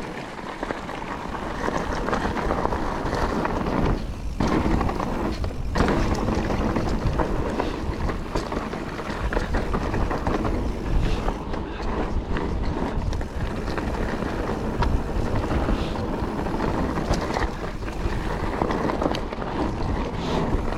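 Calibre Triple B mountain bike riding fast over a dry, loose trail: tyres crunching on gravel and the bike rattling over rough ground, with wind buffeting the microphone. The noise drops briefly twice, about four and six seconds in.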